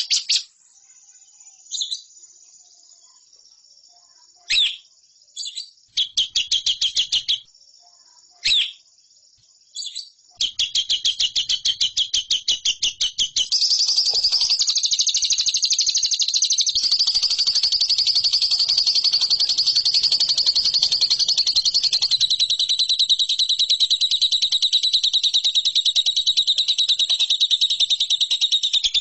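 Lovebird singing: short bursts of rapid, high chattering trills during the first ten seconds, then one long unbroken rapid trill that runs on without a pause.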